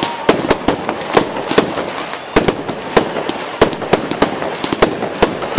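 Fireworks display: a rapid, irregular series of sharp bangs from bursting shells, several a second, over a continuous crackle.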